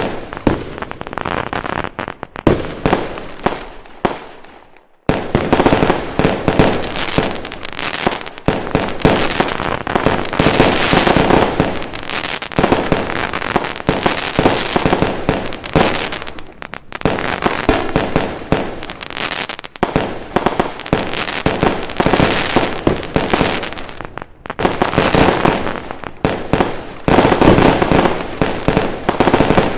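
Fireworks going off in long, dense volleys of rapid bangs and crackling, with short lulls between the volleys.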